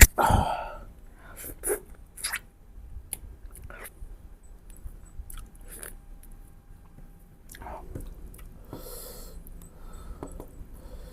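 Close-miked chewing and biting of spicy mutton ribs, with scattered wet smacks and clicks from the mouth. The loudest sound comes right at the start.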